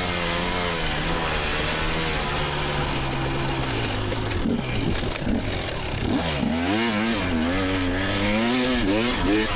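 Two-stroke dirt bike engine of a 2024 GasGas EX300 under race load, revving up and down as the throttle is worked. About four and a half seconds in the revs drop and pick up sharply several times, then rise and fall quickly toward the end.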